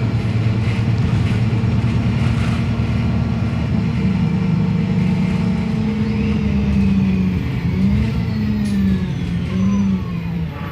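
Wrightbus StreetLite DF bus's diesel engine running steadily while the bus drives, heard from on board. From about six seconds in, a whine falls steadily in pitch and the engine note wavers up and down as the bus slows.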